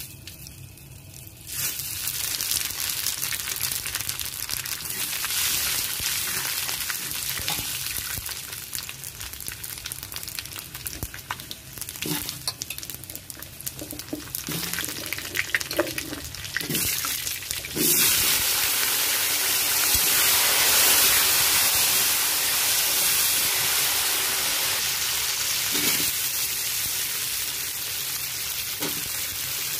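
Whole spices (cumin, kalonji, fennel, fenugreek) sizzle in hot oil in an aluminium kadai, the hiss starting suddenly about a second and a half in. Vegetables then fry with a steady sizzle while a metal spatula stirs and knocks against the pan, and the sizzle grows louder about 18 seconds in as pumpkin pieces go in.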